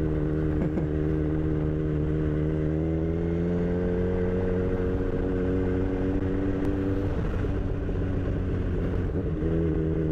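Kawasaki Z1000's inline-four engine running while riding at a steady cruise; the pitch creeps up about three seconds in, the note breaks up as the throttle eases off around seven seconds, and it settles steady again near the end.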